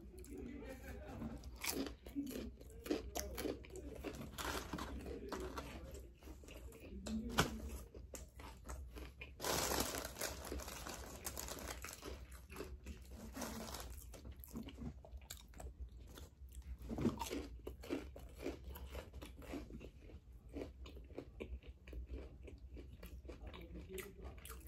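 Close-up chewing and crunching of fried chicken wings, with many small mouth clicks and smacks. The crunching gets louder for a couple of seconds about ten seconds in.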